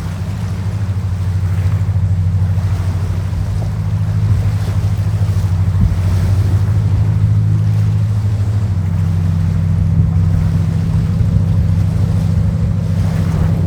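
Passenger boat's engines droning steadily under way, with water rushing and wind on the microphone.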